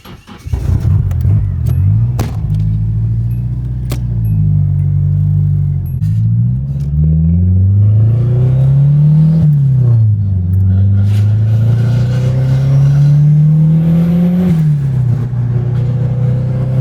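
Turbocharged vehicle engine pulling hard through the gears. Its pitch climbs steadily and drops sharply at each upshift, once around the middle and again a few seconds later.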